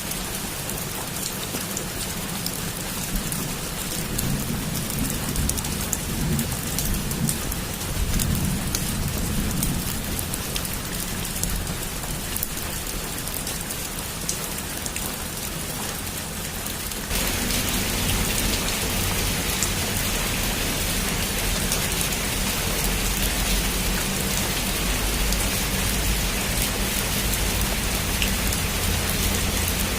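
Heavy rain pouring steadily, with low rolling rumbles of distant thunder in the first half. About seventeen seconds in, the rain abruptly becomes louder and fuller.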